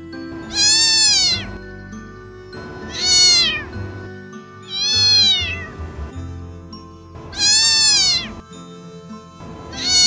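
A cat meowing five times, about two seconds apart. Each meow is loud and rises, then falls in pitch.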